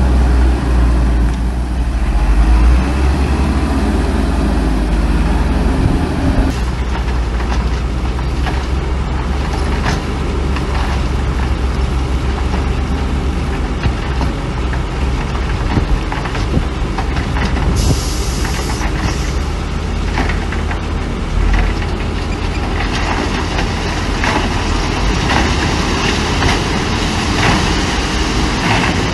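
Heavy diesel machinery running steadily, dump trucks and a bulldozer at work, with a deep engine rumble throughout. A short burst of air hiss comes about eighteen seconds in, and a stretch of clattering and knocking runs through the last few seconds.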